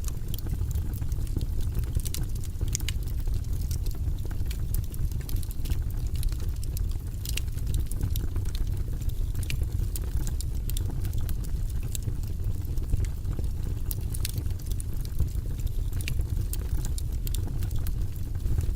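Campfire crackling: frequent irregular sharp snaps and pops over a steady low rumble.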